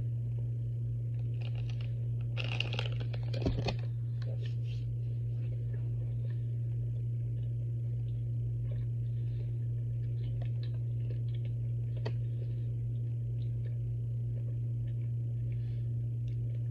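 A person chewing a cream-filled marshmallow, with soft mouth clicks and a few brief rustles about two to four seconds in. A steady low hum runs underneath throughout.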